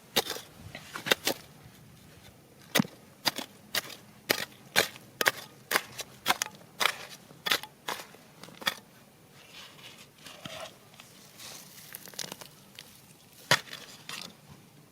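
Hand digging tool striking rock over and over: sharp knocks about two a second for the first nine seconds, then quieter scraping with a few more strikes, one loud one near the end.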